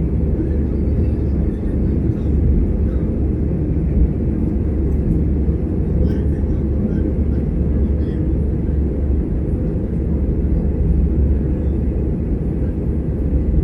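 Steady low rumble of an Airbus A320 heard from inside the passenger cabin: engine and airframe noise, even throughout, with no rise or fall.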